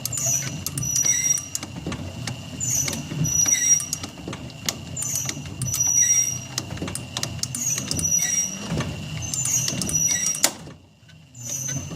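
Electric windshield wiper motor running with the washer pump it drives, a steady whine under squeaks and clicks that repeat about every second and a quarter as the mechanism cycles. The whine stops about ten and a half seconds in.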